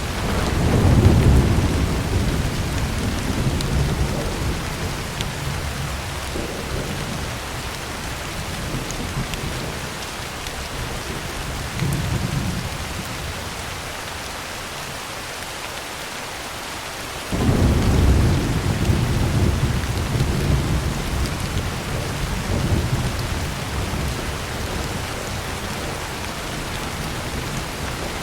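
Heavy rain drumming on a tin roof as a steady hiss, with rolling thunder: a long low rumble right at the start, a short one near the middle, and another long roll about two-thirds of the way through.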